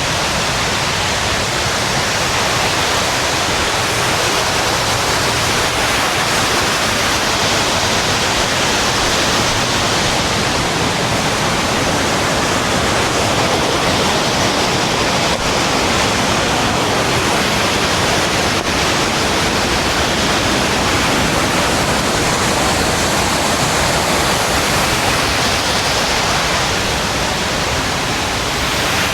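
Waterfall: water pouring and splashing in a steady, loud rush that does not change.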